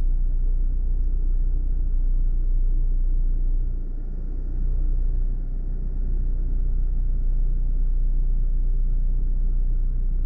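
Off-road vehicle driving on a track: a steady low engine drone and rumble, easing briefly about four seconds in.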